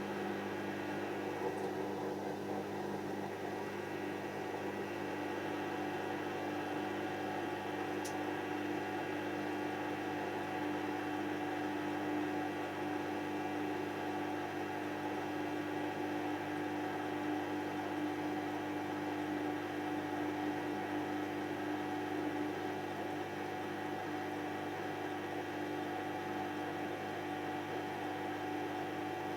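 Hoover DYN7144XD1 washing machine running mid-cycle, a steady mechanical hum with an even, unchanging tone.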